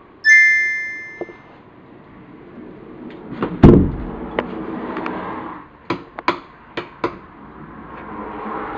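A bright ringing ding that fades over about a second, then a heavy thump and a run of sharp knocks and clicks.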